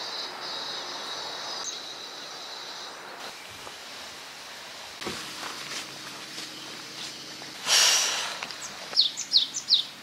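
Birds chirping outdoors; near the end one bird gives four quick, sharp chirps in a row. A steady high buzz fills the first three seconds, and a short rush of noise comes just before the chirps.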